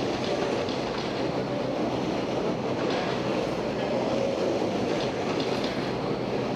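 Several 17.5-class brushless electric RC racing trucks running laps together: a steady, dense mechanical noise of motors and tyres with faint ticks.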